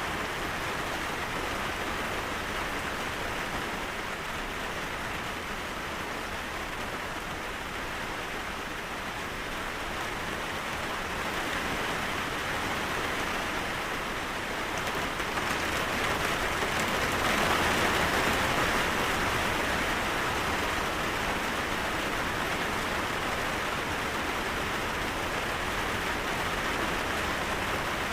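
Steady rain falling, an even hiss of many drops that swells a little louder about halfway through.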